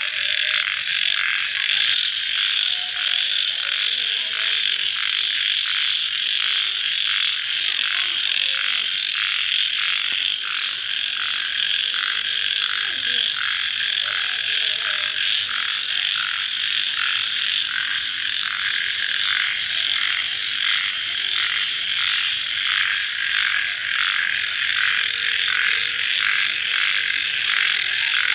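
A dense chorus of crickets chirping steadily, a high, even, fast-pulsing trill, with fainter lower calls beneath.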